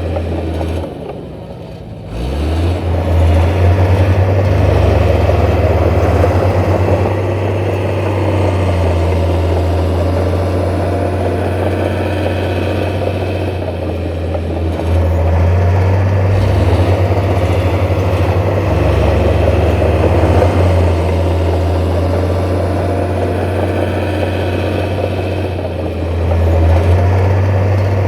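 Diesel engine of heavy earthmoving machinery running. It dips briefly near the start, rises back up about two seconds in, then holds steady with small rises and falls in load.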